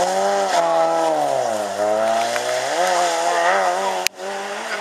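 Peugeot 106 rally car's engine revving hard through a corner and accelerating away, its pitch rising and falling with lifts and gear changes. A sharp click about four seconds in, then another car's engine, quieter.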